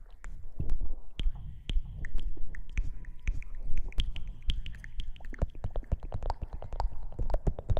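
Close-miked ASMR rustling and rubbing: a rapid, irregular stream of crackles and taps over low rumbling thumps from handling right at the microphone.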